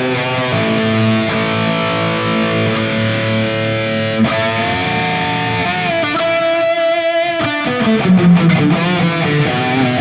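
Electric guitar played through a digital amp-modeling unit: sustained notes, then a long held note with vibrato from about halfway through.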